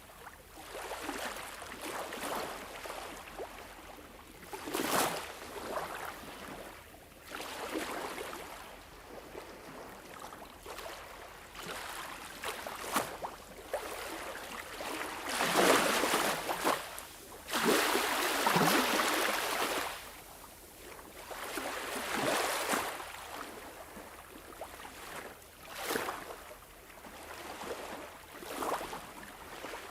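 Sea waves washing in, rising and falling in irregular swells of rushing water noise, with the biggest surges about halfway through.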